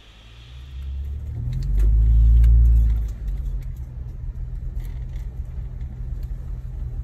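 Jeep Wrangler engine running as it drives a sandy trail, pulling harder to a loud peak about two to three seconds in, then settling to steady running with a few light clicks and rattles.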